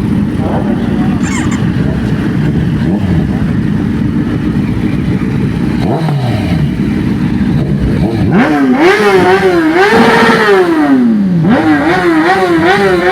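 Motorcycle engine revving hard, its pitch sweeping up and down in repeated throttle blips from about eight seconds in. Before that there is steady road noise, and a vehicle passes at about six seconds with a falling pitch.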